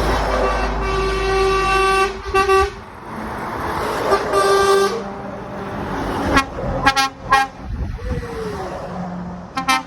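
Lorry air horns sounding as trucks pass: a long blast about a second in, a short one, another long blast around four seconds, then a run of quick toots near seven seconds and another short one near the end, over the low rumble of heavy diesel engines.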